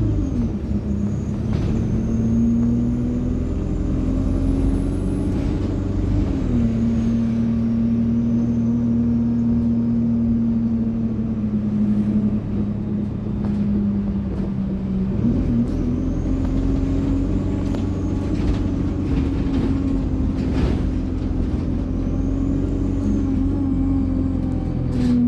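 Alexander Dennis Enviro200 bus's diesel engine running on the road, driven through an Allison automatic gearbox. The engine note drops about six seconds in and steps back up about halfway through. A faint high turbo whine rises and falls above it.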